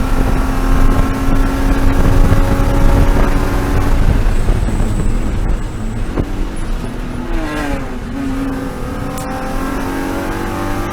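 BMW E36 M3 race car's inline-six engine heard from inside the car, held at high revs at full throttle, then lifting about five seconds in. Revs fall and jump with downshifts around seven to eight seconds, then climb again as it accelerates out.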